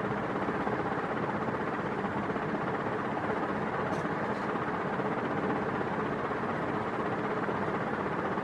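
NuTone Proline 48-inch industrial ceiling fan running steadily on its highest speed, its blades giving an even rush of air.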